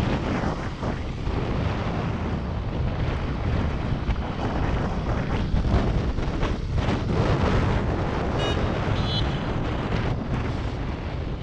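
Wind buffeting the microphone of a motorcycle riding at speed, a steady rush over the engine and road noise beneath it.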